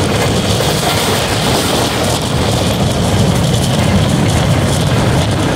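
Tezgam express passenger train running along the track: a steady rumble of wheels on rails with an even rushing noise over it.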